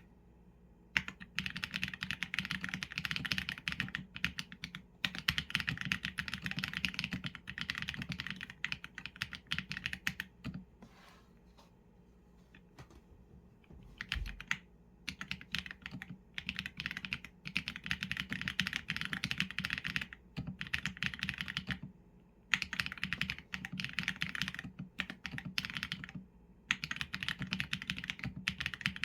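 Mechanical keyboard with Leobog Graywood v4 linear switches and PBT keycaps being typed on: quick runs of keystrokes broken by short pauses, with a longer stop about halfway through.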